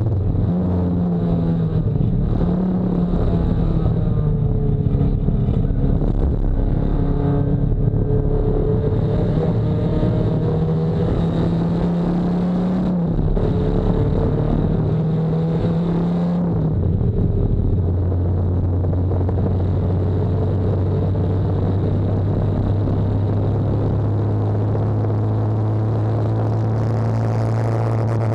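Nissan 240SX race car's engine heard from on board at speed: the note rises and falls with throttle and gear changes for the first half, then drops about 17 seconds in to a steady lower pitch that holds for the rest.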